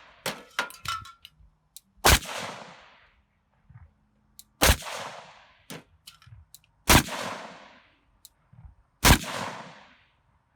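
Four single gunshots fired slowly, about two seconds apart, each followed by a long echoing tail, as the last rounds of a magazine are put into the same spot on a ballistic barrier. Light metallic clinks and a brief ringing tone come in the first second, with a few small clicks between the shots.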